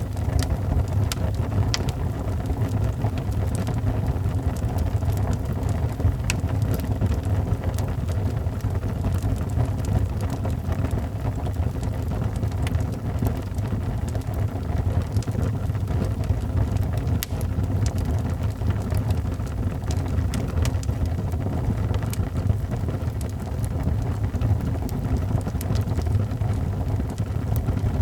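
A fireplace fire burning: a steady low rumble with scattered sharp crackles and pops.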